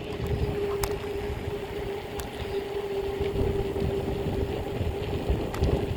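Wind rumbling on the microphone and a BMX bike's tyres running on pavement while riding, with a steady hum throughout and a few sharp clicks.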